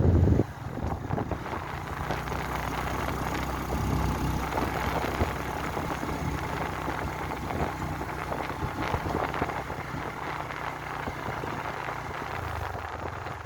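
Motorbike engine running steadily at low speed or idle. Heavy wind rush on the microphone cuts off about half a second in.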